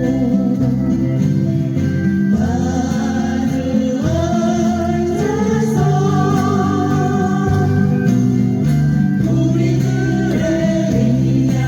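Acoustic guitars strumming a song with singing over them; the vocal line comes in about two seconds in.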